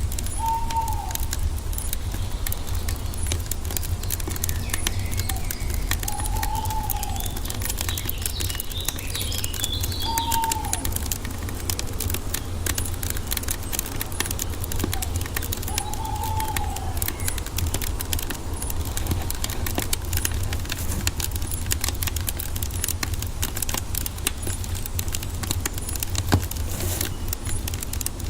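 Wood fire crackling steadily, with constant small pops over a low rumble. A bird calls four times, each a short arched note, and fainter higher chirps come in about a third of the way through.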